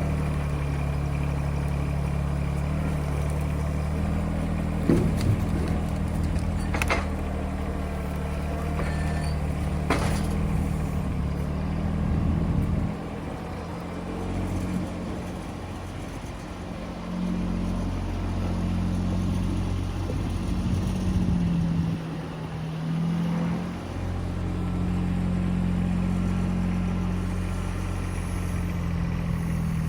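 An engine running steadily. Its note drops and comes back a few times, and a few sharp knocks come about five, seven and ten seconds in.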